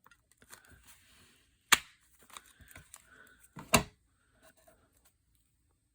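Hand-held paper notcher punching through folded book pages: two sharp snapping clicks about two seconds apart, with faint paper handling between.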